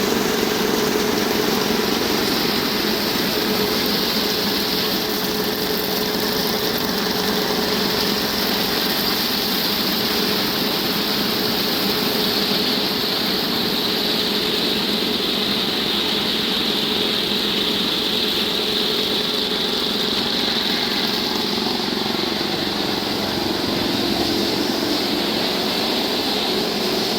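A David Brown 25 tractor engine running steadily.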